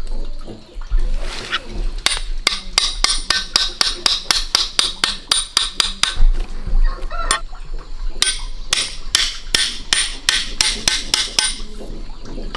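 Rapid, evenly spaced sharp knocks, about four a second, stopping for a moment in the middle and then resuming.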